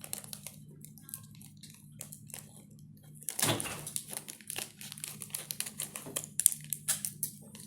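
Scissors snipping through a plastic food wrapper, with the wrapper crinkling. There is a louder rustle of the plastic about three and a half seconds in, and a quick run of snips near the end.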